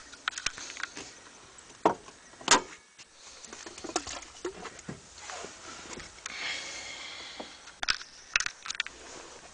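Irregular clicks, knocks and rustling of something being handled, with one sharp knock about two and a half seconds in and a short hissy rustle around two-thirds of the way through.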